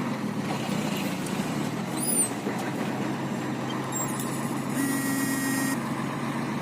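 Scania truck's diesel engine running steadily at low revs, with a steady buzzing tone sounding for about a second near the end.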